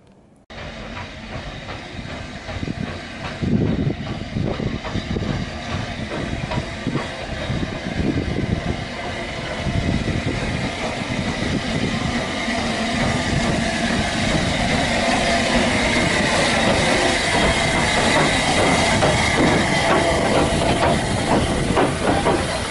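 Steam-hauled heritage train running on the rails, a continuous rumble and hiss with irregular wheel clicks, growing gradually louder.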